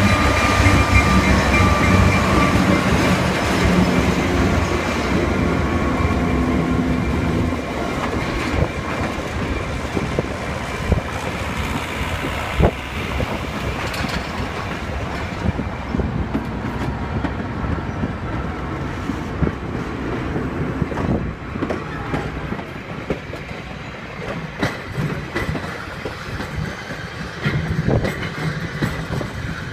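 Diesel-electric locomotive passing close by, its engine drone loud for the first several seconds and then dropping away. Passenger coaches follow, rumbling past with scattered clicks of wheels crossing rail joints.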